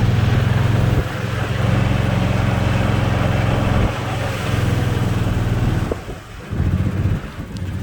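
EZ-GO golf cart's small gasoline engine running under varying throttle, with a pulsing note that eases off a couple of times and dips low about six seconds in before picking up again.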